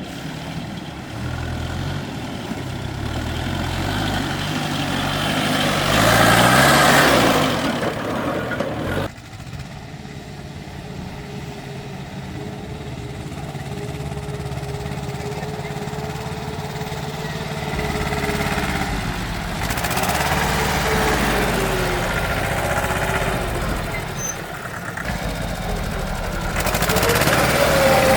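Tractor engine running and revving, its pitch rising and falling, with a louder rushing stretch about six seconds in. It cuts off abruptly about nine seconds in to a steadier-running engine that swells again near the end.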